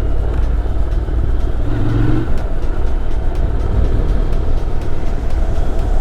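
Motorcycle on the move at road speed: a steady rush of wind noise with the engine running underneath.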